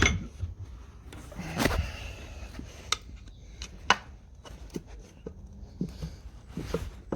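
Scattered clicks and knocks of hand tools on metal, a few seconds apart, while a stuck part on the tractor engine is worked loose.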